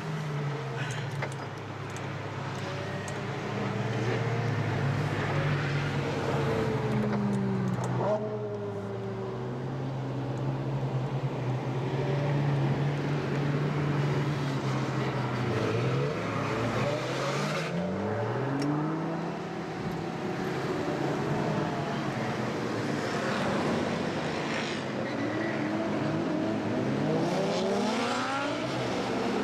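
Ferrari FF's V12 engine heard on board, running at a steady cruise for about fifteen seconds, then pulling up in pitch in several rising sweeps as the car accelerates through the gears.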